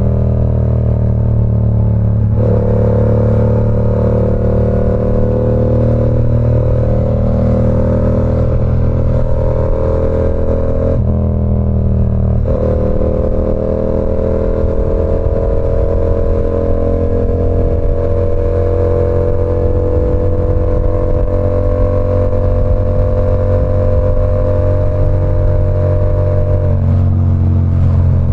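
Yamaha R7's 689 cc parallel-twin engine through an SC Project CR-T aftermarket exhaust, running under way at a loud, steady level. The engine note changes abruptly about two seconds in and again around eleven to twelve seconds, then holds.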